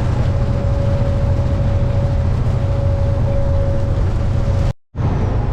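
Semi truck running at road speed: a steady low engine drone and road noise with a thin, steady whine above it. The sound drops out for a moment near the end.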